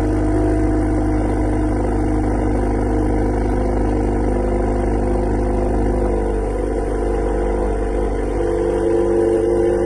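Exhaust of a Honda Accord Sport's 1.5-litre turbo four-cylinder, with catless downpipe and the resonator and muffler deleted, idling steadily with a loud, raw drone. The tone shifts slightly near the end.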